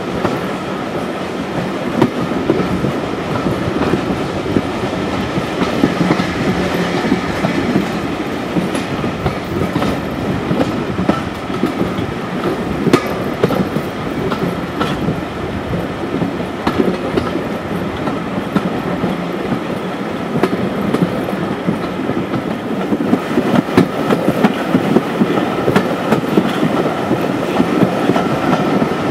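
Heritage railway carriage running along the line, heard at the carriage window: steady rumble of wheels on rail, with occasional sharp clicks as the wheels cross rail joints.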